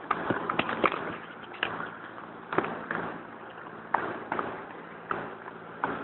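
Mi-17V5 helicopter running with a steady low hum, and irregular sharp knocks and thumps over it.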